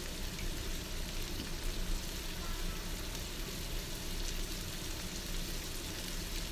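Siomay, shrimp and squid frying in oil in a wok: a steady sizzle with no stirring or spatula strikes.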